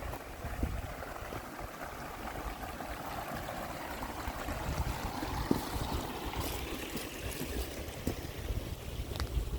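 A stream of water flowing steadily, with a low rumble of wind on the microphone underneath.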